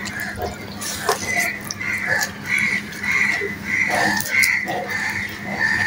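Wet chewing and lip-smacking of a mouthful of rice and fried hilsa fish, a regular rhythm of about three chews a second that starts about a second in.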